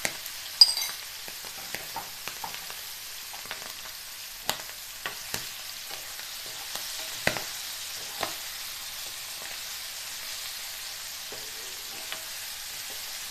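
Chicken liver pieces sizzling in hot oil in a nonstick frying pan as a spoon turns them, with a steady hiss and scattered sharp clicks and pops.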